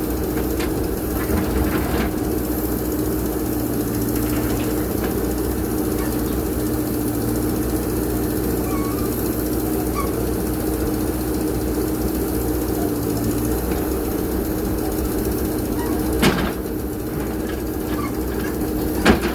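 JCB backhoe loader's diesel engine running steadily while working, its low hum changing about two-thirds of the way through. Two sharp knocks stand out, one about three-quarters through and one near the end.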